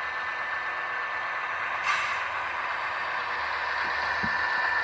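Steady mechanical running sound from an HO scale model diesel locomotive's sound system, heard through its small speaker, with a short air hiss about two seconds in.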